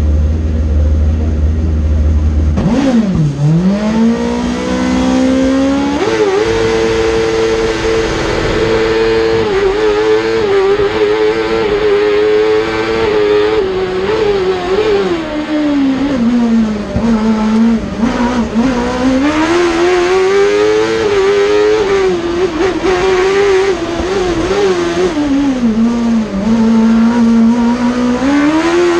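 Suzuki-engined Peugeot 106 race car at high revs, its engine note climbing and falling again and again as it accelerates and slows between slalom gates. A low steady drone comes before the engine note rises, about three seconds in.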